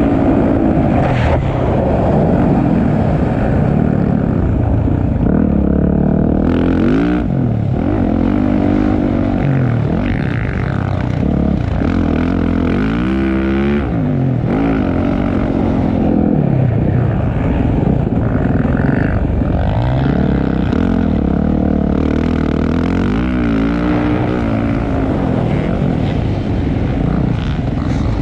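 Motocross bike engine running hard, its pitch climbing and dropping back over and over as the bike accelerates, shifts and backs off.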